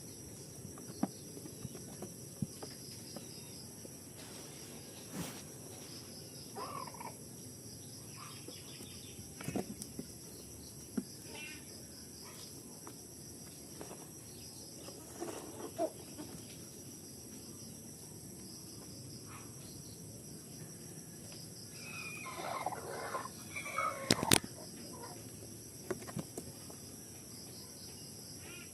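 Farmyard animal calls: scattered short clucks and cries over a steady background hiss, busiest about three-quarters of the way through, with a sharp knock right after that cluster.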